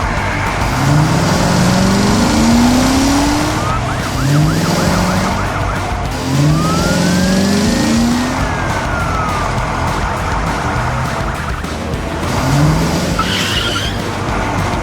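Cartoon sound effects of vehicle engines revving over and over in short rising sweeps, with a siren wail that rises and falls once about halfway through.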